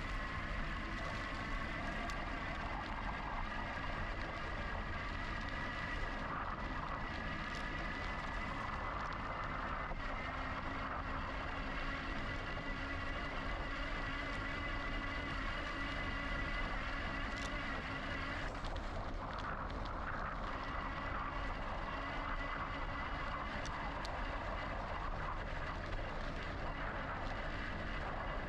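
Steady riding noise from a GoCycle GX electric bike: wind and tyre rush with a steady high whine, which falters briefly about two-thirds through.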